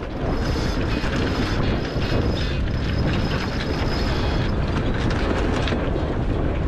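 Steady wind noise on the microphone and rushing water aboard a sailboat under way in a strong breeze, a dense even rumble with faint thin high tones running through it.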